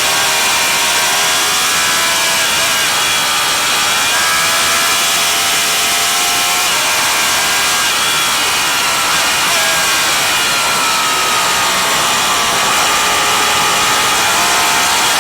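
Racing motorcycle engine running hard at high revs, its pitch climbing and dropping again and again as the bike accelerates, shifts gears and slows for corners.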